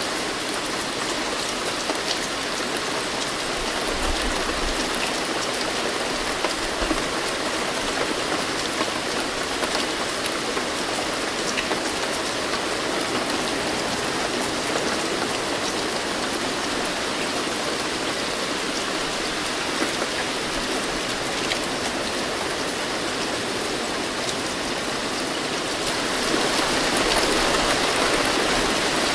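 Steady rain falling, with individual drops pattering on a surface. It grows a little louder near the end.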